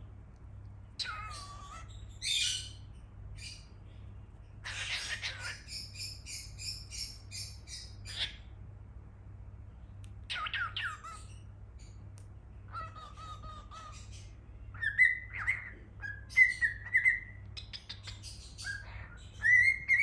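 Cockatiel chirping and calling in short bursts: harsh squawks and a quick run of chirps, then a held note and several loud rising whistles near the end.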